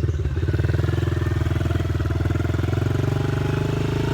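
Small 110 cc dirt bike engine running steadily at low revs, with an even putter and no revving.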